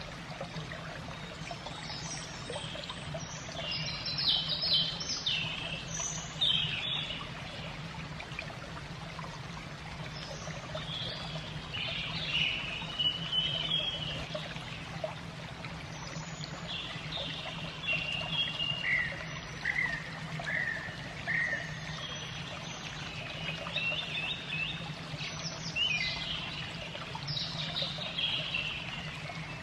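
Steady trickling, running water, with small birds breaking in every few seconds with short runs of quick, high chirps.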